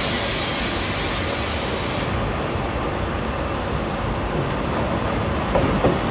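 Train pulling slowly out of the station: a steady rumble of wheels and running gear, with a high hiss that cuts off about two seconds in and a few light clicks and knocks from the wheels near the end.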